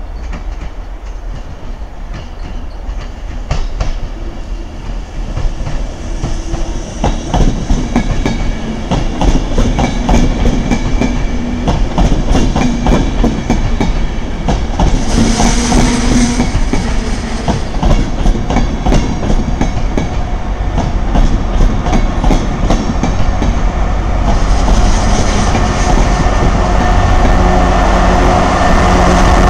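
Enterprise push-pull passenger train arriving and passing close by: a steady rumble, with wheels clicking over rail joints and points, growing louder as the coaches go past, and two brief hisses. Near the end the Irish Rail 201 class diesel locomotive pushing at the rear comes by with its engine running.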